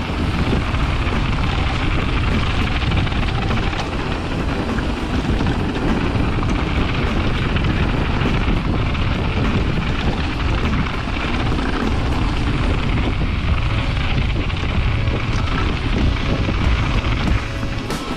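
Steady wind rush and rolling noise from a mountain bike descending a trail at speed, heard on the rider's camera microphone.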